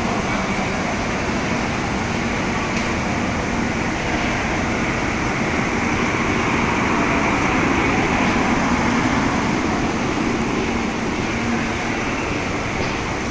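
Steady, even rumble and hiss with no distinct events, getting slightly louder about halfway through, typical of train running or ventilation noise.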